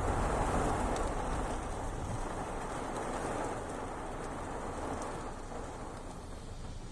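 Fairly heavy rain falling, a steady rushing hiss that eases off slightly as it goes on.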